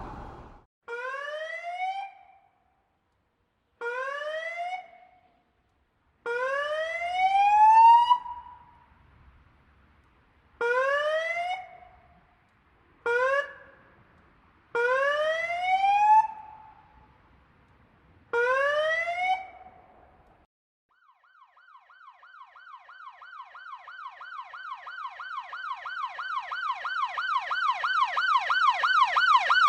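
Police siren: seven separate short rising whoops, each a second or two long with gaps between them. About two-thirds of the way in, a fast repeating yelp starts, several cycles a second, and grows steadily louder.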